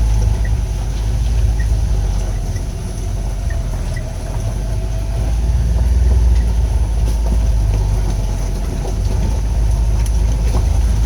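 A vehicle driving along a gravel driveway, giving a steady low rumble of engine and tyres that swells and eases a little but never stops.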